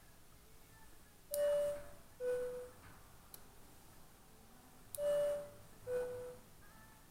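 A two-note electronic chime, a higher note then a lower one, ding-dong, sounded twice about four seconds apart.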